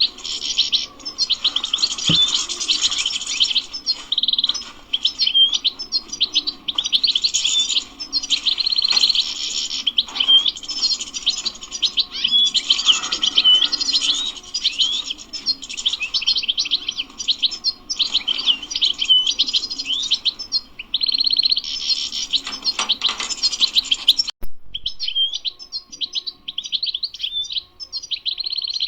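European goldfinch singing a long, continuous twittering song of rapid chirps, trills and buzzy notes. The background hum stops abruptly about 24 seconds in while the song goes on.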